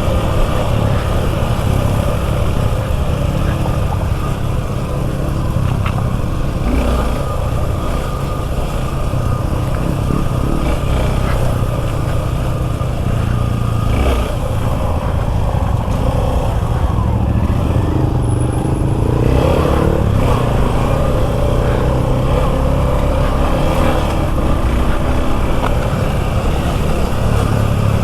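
Suzuki V-Strom 250 SX motorcycle engine running steadily while under way, a continuous low drone mixed with wind and road noise.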